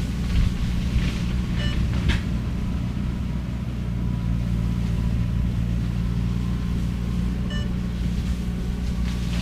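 Skid steer engine running steadily under load while working a shredder head through cane. Two brief high beeps sound about six seconds apart, and a short sharp knock comes about two seconds in.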